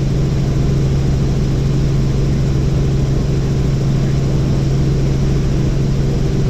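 Helicopter in flight: a steady, loud drone of rotor and engine with a strong constant low hum.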